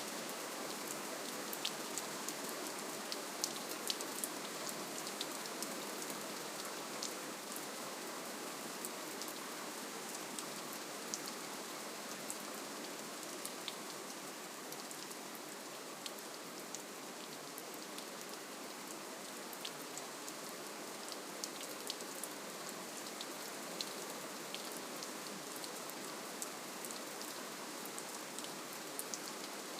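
Steady, gentle rainfall, a constant hiss with many small drops pattering on surfaces.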